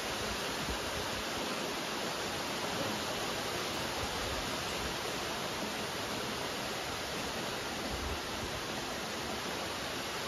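Steady rain falling, an even wash of many drops with no pauses or changes.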